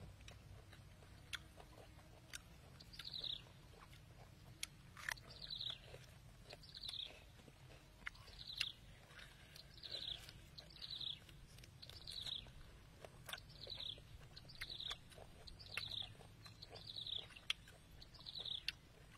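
A bird repeating a short, high, falling call about once a second, starting a few seconds in, over scattered sharp clicks and crunches of chewing.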